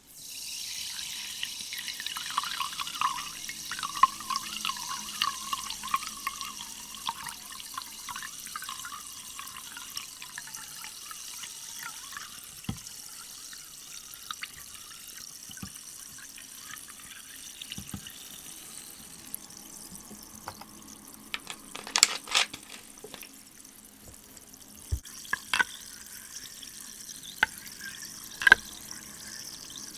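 Liquid sound: a hiss with fine crackling that starts suddenly and dies down over about ten seconds, followed by scattered light taps and clicks, with a cluster about two-thirds of the way in and several more near the end.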